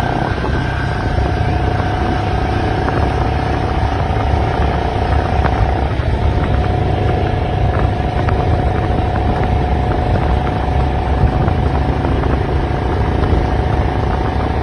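Royal Enfield Bullet 500's single-cylinder four-stroke engine running steadily on the move, with no let-up in level.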